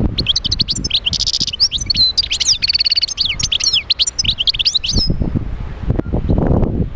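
European goldfinch singing a fast, high twittering song with two buzzy trills. The song stops about five seconds in.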